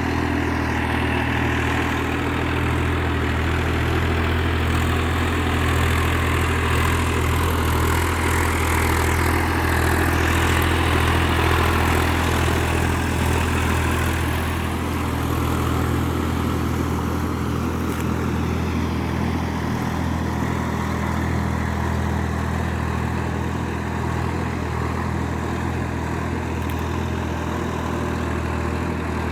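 Massey Ferguson 7250 DI tractor's three-cylinder diesel engine running steadily, a little louder in the middle stretch.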